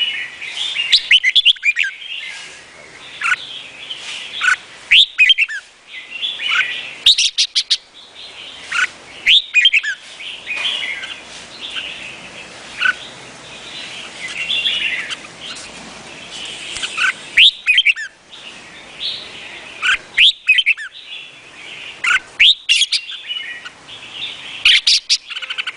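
Red-whiskered bulbul singing: short, bright phrases of quick sweeping whistled notes, repeated every couple of seconds over a steady layer of high chirping.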